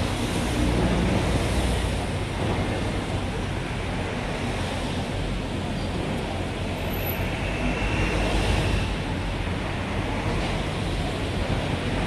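Street traffic: motor vehicles running and passing, a steady road noise with a low rumble that swells about a second in and again around eight seconds.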